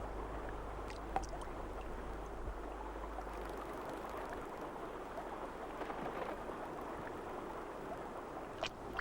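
Steady water sound, gentle splashing and lapping, with a few faint clicks.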